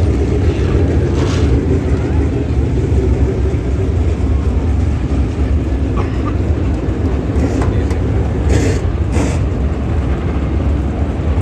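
Dirt late model race cars' V8 engines running at speed in a steady, loud, continuous drone, with a few brief rushes of hiss scattered through.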